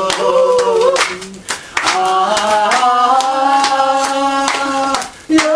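A person singing a Korean trot-style song, holding one long note through the middle and breaking off near the end, while others clap along to the beat.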